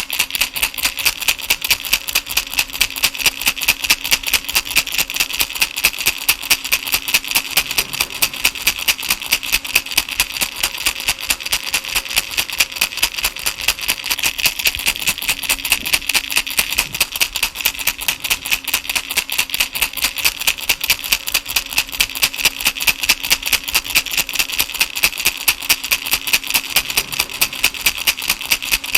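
A baby rattle shaken steadily, its beads rattling in a quick, even rhythm that repeats without pause.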